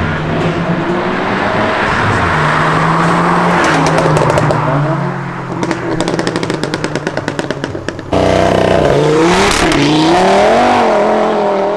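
Car engine pulling hard under acceleration, its note holding and stepping in pitch, then breaking into a fast fluttering rattle for a few seconds. After an abrupt cut about eight seconds in, a louder car engine revs, its pitch swooping up and down.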